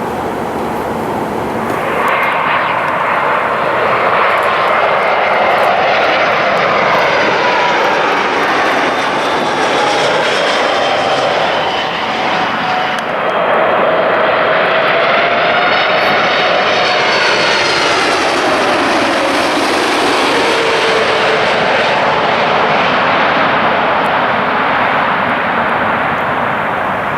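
Jet airliner passing close by, loud engine noise with whining tones that slide down in pitch as it goes past; the sound swells about two seconds in and falls away near the end.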